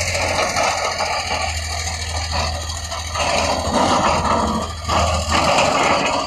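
Heavy earthmoving machine's diesel engine running with a steady low drone, under uneven scraping and grinding of a bucket or blade on soil and rock. The engine drone drops away near the end.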